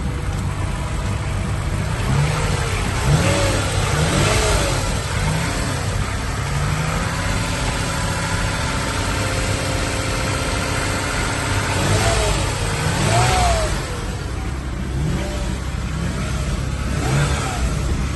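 2011 Toyota Sienna minivan engine running at idle and revved in short blips, the pitch rising and falling again several times in a few clusters.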